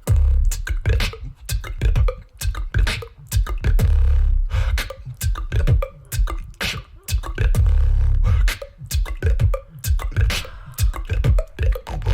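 Solo vocal beatboxing: rapid, sharp mouth snares and hi-hats over deep, droning bass notes that swell in several times, each held for about a second.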